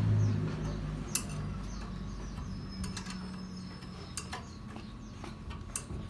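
Scattered light clicks and knocks, the sharpest about a second in, with birds chirping in the background; a low hum fades out over the first second and a half.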